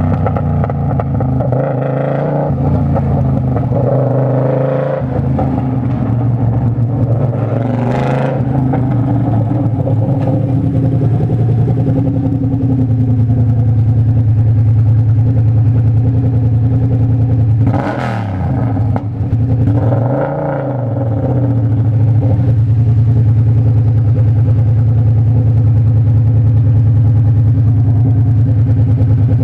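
Motorcycle engine running steadily under way, with the throttle closed and reopened twice about two-thirds of the way through, the pitch dropping and climbing back each time. Two brief whooshes pass over it, one about a quarter of the way in and one just before the throttle changes.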